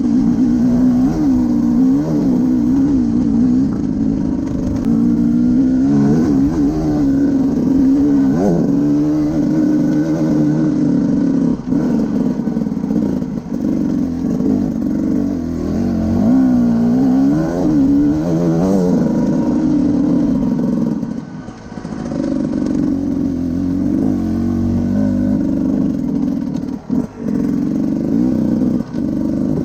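Motorcycle engine being ridden, its revs rising and falling again and again under changing throttle. The engine note drops away briefly about two-thirds of the way through and twice near the end, as the throttle is closed.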